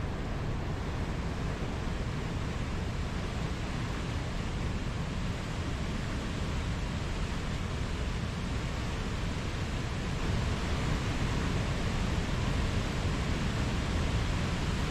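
Mountain stream rushing steadily: a continuous wash of flowing water, with no let-up.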